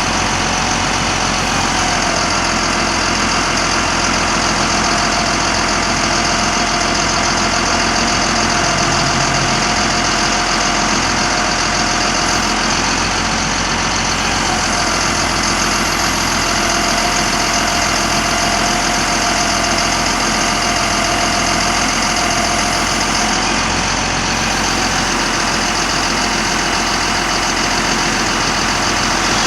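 Caterpillar diesel engine of a 1991 GMC Topkick bucket truck idling steadily. A thin whine rides over it part of the time.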